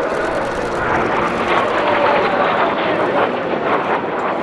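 Kawasaki T-4 jet of the Blue Impulse team flying past, its engine noise loud with a whine that falls in pitch over a couple of seconds.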